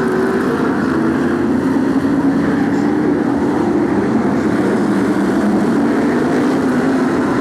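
BRISCA F1 stock cars' V8 engines running as the field laps the oval, a steady, loud drone of many engines together with no single car standing out.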